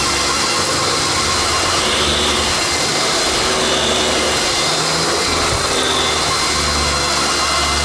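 Vacuum cleaner running with a freshly serviced Lindhaus Stealth power brush head attached, being tested: a loud, steady motor and suction noise with a spinning brush.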